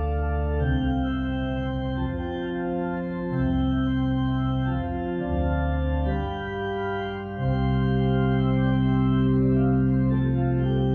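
Organ playing slow, sustained chords, with a deep bass line whose notes change every second or two and drop out briefly a couple of times.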